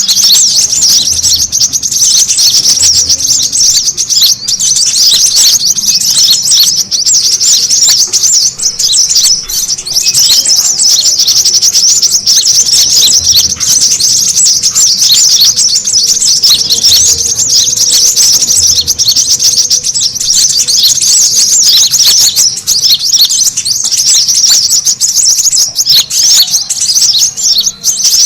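Brown-throated sunbirds (kolibri kelapa) chattering busily: a loud, unbroken stream of rapid, high-pitched chirps and twitters, the excited calling used as a lure.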